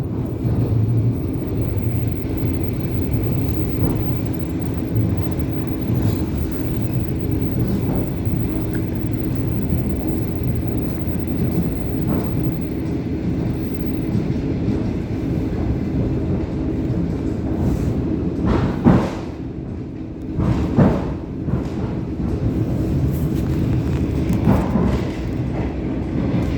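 ET2M electric multiple unit running along the track: a steady rumble of wheels on rail with a constant hum. Several sharp knocks stand out in the last third.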